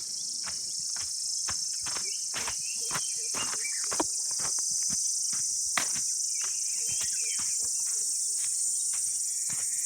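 Steady high-pitched buzzing chorus of insects, with irregular sharp ticks about twice a second and a few faint bird chirps.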